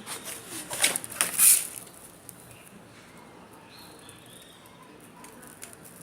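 Cardboard and paper being cut out with scissors and handled: a few loud rustling crunches in the first two seconds, the loudest about a second and a half in, then quieter handling.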